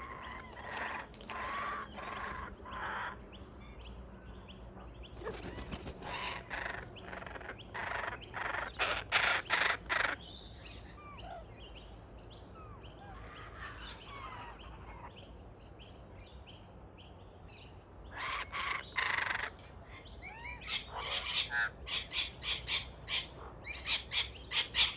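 Birds calling in bursts of fast, harsh repeated notes. The bursts come at the start, again through the middle, and louder towards the end, with a quieter spell of a few thin chirps in between.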